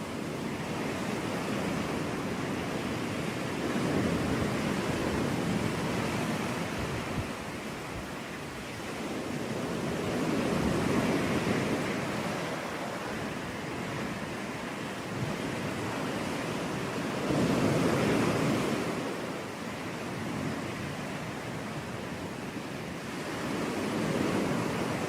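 Sea waves breaking on a beach. The surf swells and washes back about every six to seven seconds, four times, with the loudest swell about two-thirds of the way through.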